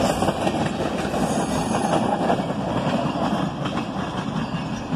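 Freight cars rolling past on the rails, the wheels running over the track, with the sound easing off toward the end as the last cars move away.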